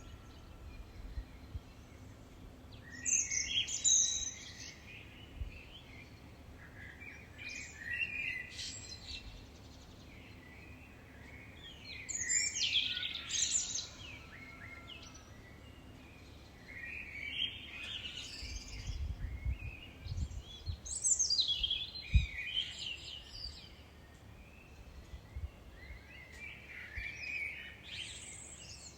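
Songbird singing short, high warbled phrases about every four to five seconds, over a faint low background rumble.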